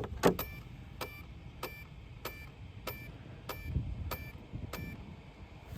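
Electronic speed controller of an RC truck beeping: a short clicky beep about every two-thirds of a second, eight times in a row. It is a warning from the electronics, which the driver takes for a low-voltage cutoff.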